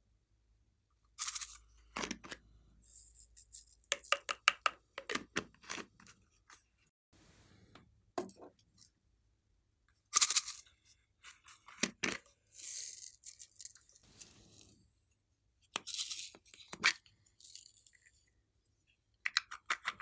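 Slime being worked by hand: irregular sticky crackles, pops and squishes in short bursts.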